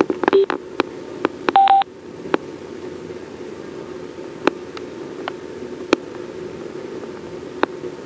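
Sena 20S Bluetooth helmet headset sounding short electronic beeps as its jog dial is pressed and held, with a quick run of beeps about a second and a half in. Sharp clicks come every second or so over a steady low hum. The beeps mark the headset stepping toward intercom pairing while the button is held.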